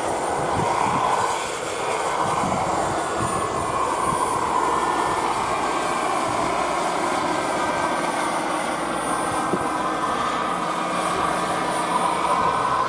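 Radio-controlled scale model helicopter flying, its motor and rotors running steadily with a thin high whine. The pitch drifts up and down as it manoeuvres.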